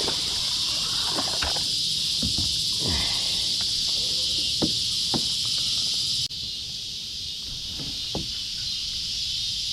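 Steady chorus of insects, a dense high-pitched buzz, with a few soft knocks and a brief break about six seconds in.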